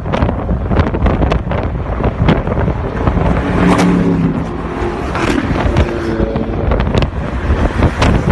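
Loud car engines running and revving, rising in pitch a few times, with wind buffeting the microphone.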